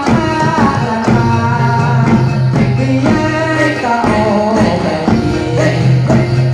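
Live jathilan accompaniment music: a held melody with singing over steady, regular percussion.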